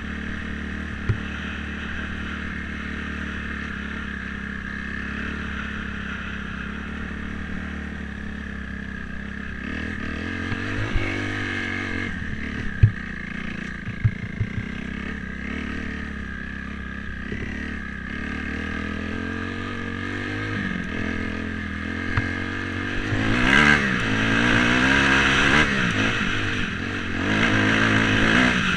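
Dirt bike engine running as it is ridden, with a few sharp knocks along the way. In the last third the engine revs up and down several times, the loudest part, and revs again near the end.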